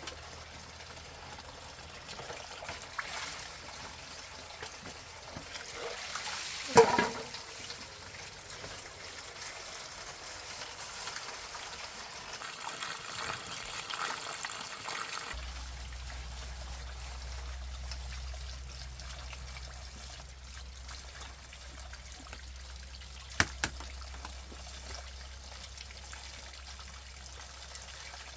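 Water trickling steadily, with a sharp knock about seven seconds in and two quick clicks later on.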